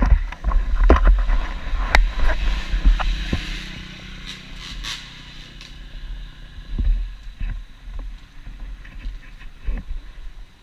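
TM Racing 250 FI motocross bike engine running at low revs, with heavy wind rumble and repeated sharp knocks and thumps on the camera microphone, loudest in the first three seconds.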